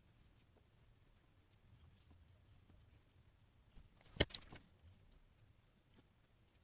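Faint scratching of a drawing tool on paper, mostly very quiet, with two sharp clicks close together about four seconds in.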